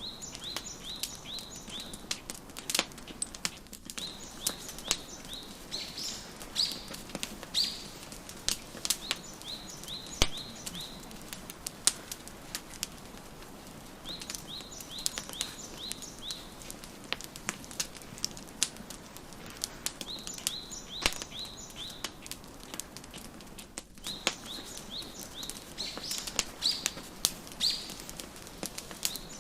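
Wood fire crackling with frequent sharp pops over a steady hiss. A small songbird sings short runs of quick, high, falling chirps, pausing a few seconds between runs.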